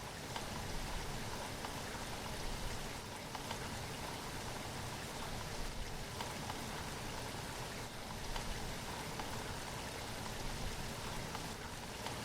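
Steady rain falling, a continuous hiss with scattered drops tapping on a surface.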